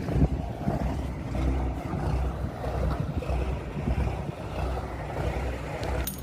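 Wind buffeting the microphone: an irregular, gusting low rumble.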